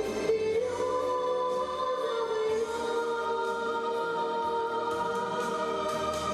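Children's vocal ensemble singing long held notes together, with musical accompaniment.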